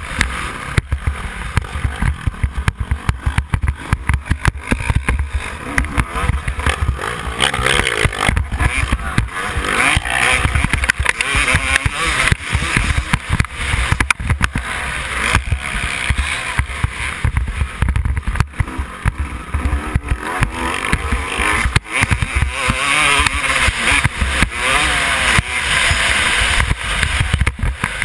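Yamaha YZ250 two-stroke motocross bike engine revving up and down, with the pitch rising and falling through the gears, under heavy wind rumble on the microphone.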